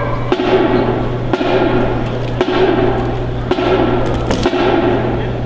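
Drill team's body percussion: sharp strikes in unison about once a second, over a steady low hum.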